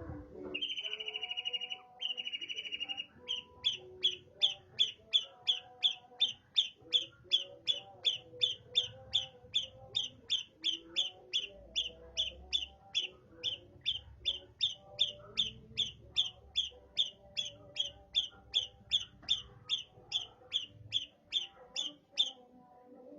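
Long-tailed shrike (cendet) singing in mimicry of a tree sparrow. It gives two long harsh buzzy notes, then a long run of repeated sparrow-like chirps about two a second, which stops shortly before the end.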